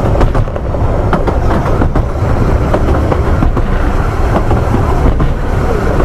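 Narrow-gauge railway carriage running along the line: a loud, steady rumble of wheels on rail with irregular clicks and knocks from the track.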